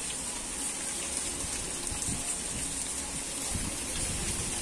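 Steady rain falling, a constant hiss with scattered faint drop ticks.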